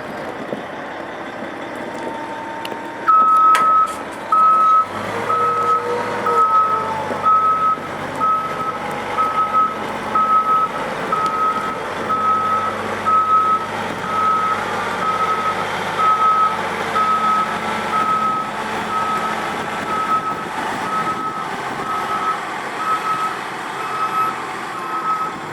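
Caterpillar 740 articulated truck backing up: its reverse alarm beeps steadily, a little more than once a second, over the engine running. Two loud blasts come just as the beeping starts.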